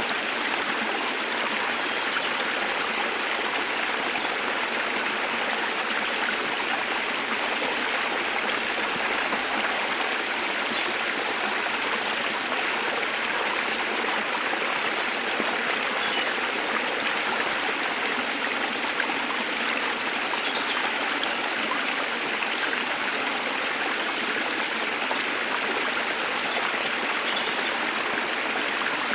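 Waterfall rushing steadily, with a few faint, brief bird chirps scattered over the water noise.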